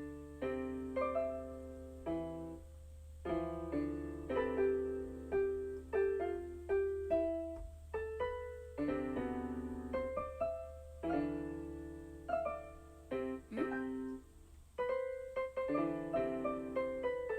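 Background music played on a keyboard with a piano sound: single notes and chords struck in a gentle, unhurried run, each one fading away.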